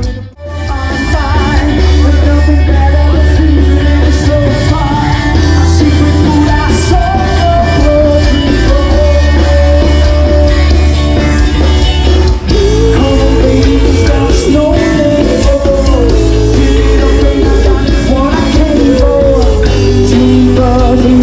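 A live rock band playing a song, with a singer's melody over a loud, steady bass. The sound drops out briefly right at the start.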